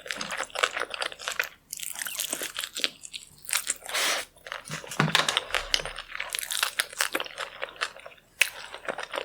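Close-miked eating: a person biting, crunching and chewing food, many short crackly bites and chews in irregular clusters with brief pauses between them.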